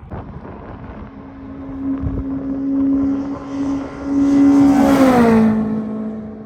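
Race car passing at speed on the track: a steady engine note grows louder, peaks about five seconds in, and drops in pitch as the car goes by.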